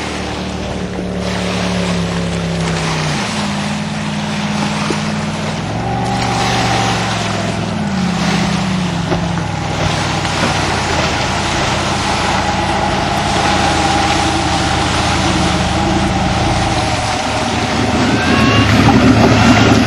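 Jet boat's supercharged 468 cubic-inch Chevy big-block V8 running on the water, its note dropping and rising a few times with the throttle. Rushing water and wind noise grow louder near the end.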